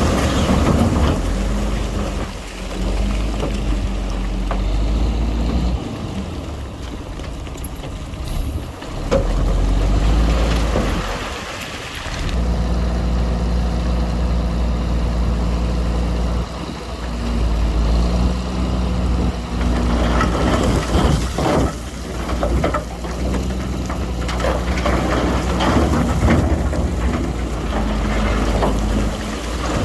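Diesel engine of heavy earthmoving machinery running under load, its level rising and falling every few seconds as it works, with a few sharp knocks a little past two-thirds of the way through.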